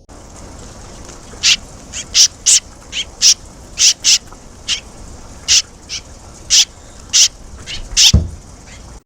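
Swallows calling at the nest: about fourteen short, sharp, high calls at uneven intervals over a steady hiss, with a loud low thump about eight seconds in.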